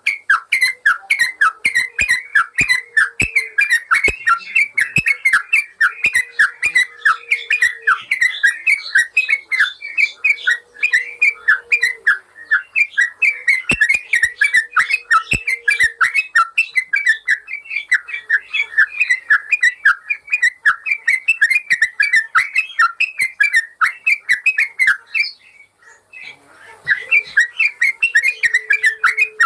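Yellow-vented bulbul (trucukan) song: a fast, unbroken chatter of short, bubbly whistled notes, with a brief pause about 26 seconds in.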